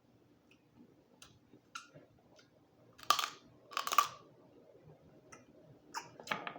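Close-miked eating of boiled Dungeness crab: small clicks and chewing, with louder cracks of crab shell about three and four seconds in and again near the end.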